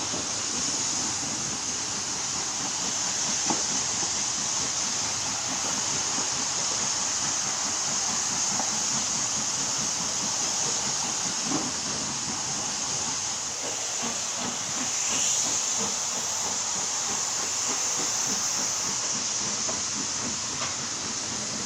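Steady hissing noise with a few faint knocks.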